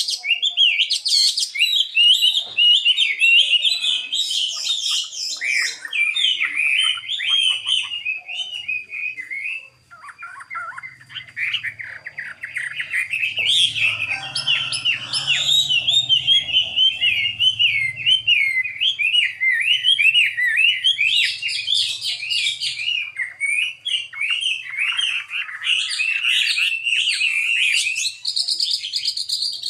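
Chinese hwamei (họa mi), a fighting-type male, singing a long, rapid, varied song of warbled whistles, with a brief pause about ten seconds in.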